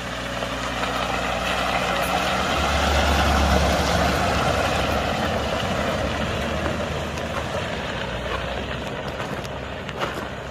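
Off-road vehicle engine running with tyre and road noise, swelling louder over the first few seconds and then slowly easing off.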